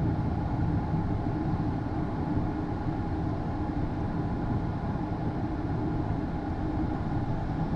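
Steady cockpit noise of a Hawker 800XP business jet taxiing, its TFE731 turbofans at idle: an even rumble and hum with faint steady tones above it.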